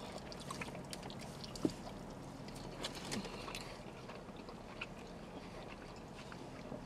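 Faint wet chewing and small mouth clicks from eating a burrito, with one slightly louder tick about a second and a half in.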